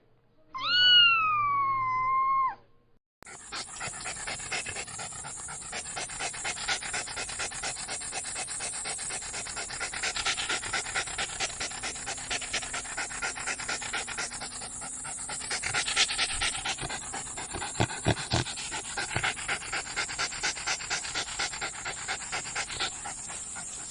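A single meow-like call, then a dog panting rapidly and steadily for about twenty seconds.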